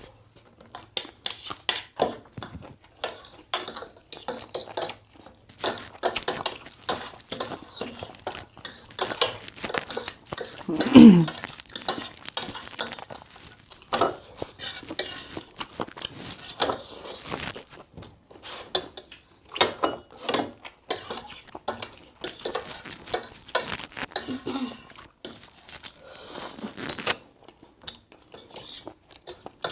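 Cutlery clinking and scraping against a plate while eating, many short clinks throughout. One louder sound with a falling pitch about eleven seconds in.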